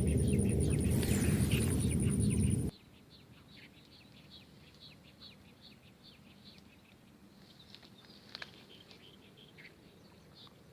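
Small birds chirping in many short, quick calls over quiet open-air ambience. For the first few seconds a loud low rumbling noise and a steady high pulsing buzz sit under the chirps, then both cut off abruptly, leaving only the birdsong.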